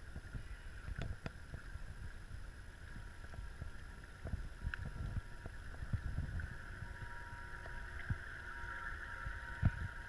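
Radio-controlled model boat's motor whining steadily, growing louder in the second half, over low wind rumble on the microphone.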